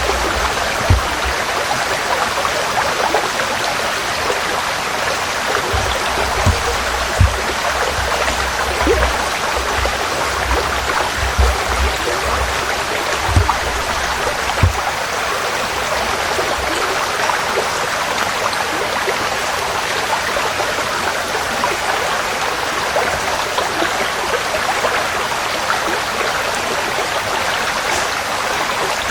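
Forest stream flowing steadily, with an even rush of running water. Through the first half, irregular low thumps sit under it.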